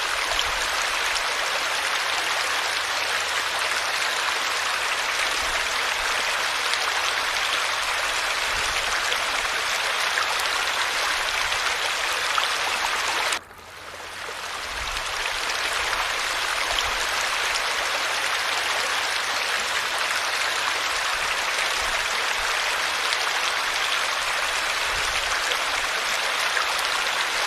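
Steady rush of falling water. About halfway through it cuts out abruptly and fades back in over a couple of seconds.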